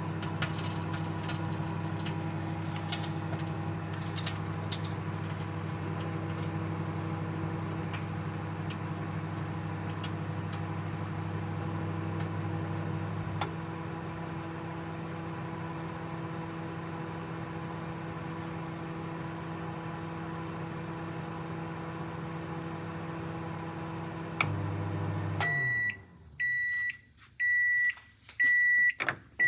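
Microwave oven running on low power, a steady hum with scattered faint clicks that drops a little in level about halfway through. The hum stops near the end, and five beeps follow, signalling the end of the timed cycle.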